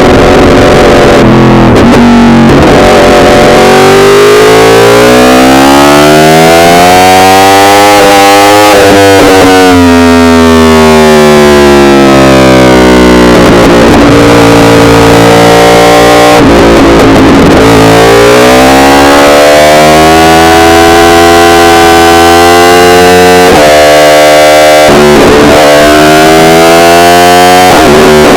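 Yamaha R1 inline-four engine revving on the road: the pitch climbs for several seconds, falls away around the middle, then climbs again, with sharp breaks near the end. The recording is overloaded and heavily distorted.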